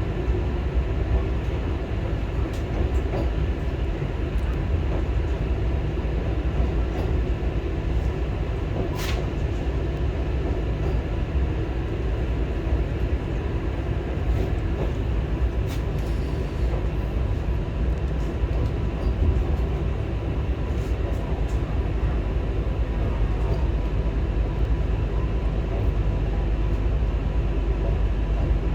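Vande Bharat Express electric trainset running on the rails, heard inside the coach: a steady low rumble of wheels and track, with a few faint sharp clicks.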